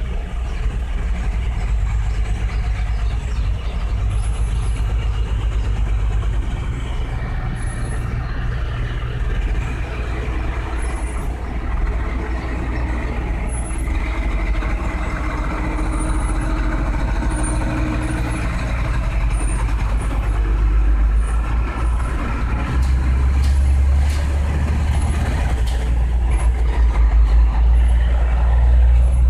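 Truck engine running with a steady low rumble that grows louder about three-quarters of the way through.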